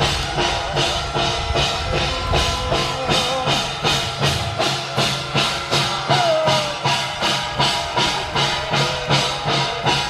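Korean traditional ritual percussion music accompanying a shamanic blade-walking rite: drums and cymbals beat a steady, fast pulse of about three strokes a second, with a wavering melody line above it.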